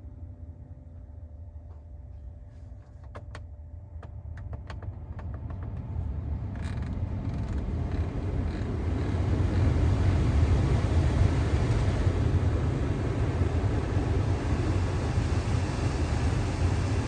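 Inside a 2016 Ford Expedition: a few light clicks, then a steady rushing noise over a low rumble that builds for several seconds and then holds, the sound of the truck running with air moving through the cabin.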